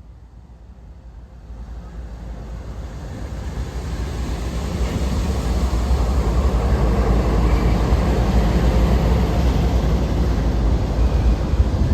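A train approaching, its rumble growing steadily louder over the first six seconds and then holding loud and even as it passes close.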